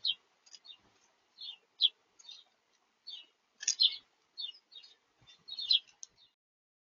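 Small birds at a feeder chirping: a string of short, high chirps, about a dozen, that stops a little over six seconds in.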